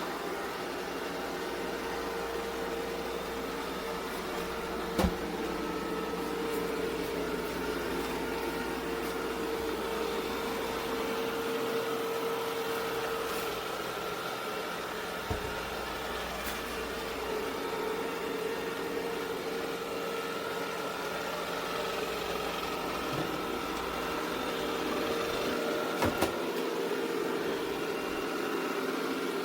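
Ecovacs Deebot X9 Pro robot vacuum running with a steady motor hum and whine, broken by a few brief knocks.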